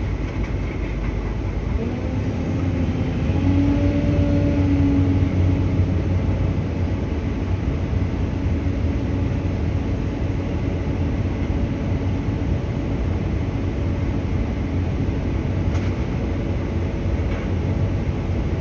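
A 4-ton truck's diesel engine running with a steady low rumble; its pitch rises about two seconds in, as under acceleration, and then holds.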